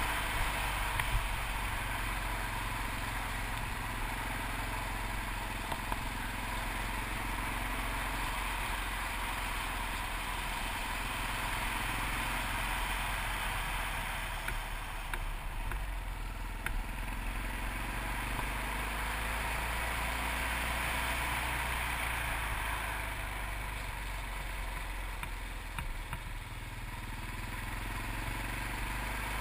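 Yamaha TT600RE single-cylinder dirt bike engine running at a steady pace while riding, heard from a camera mounted on the moving bike, with a steady rushing noise under it. A few short clicks or knocks come near the start and again about halfway through.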